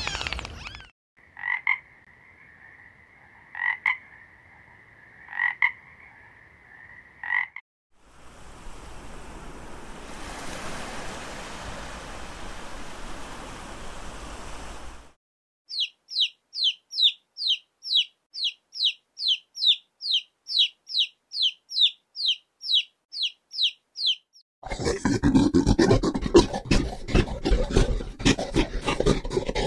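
A sequence of short animal-call recordings cut one after another: a steady high trill with a pulse about every second and a half, then several seconds of hiss, then a fast run of about thirty short high chirps at roughly three a second, and finally a dense rattling croak.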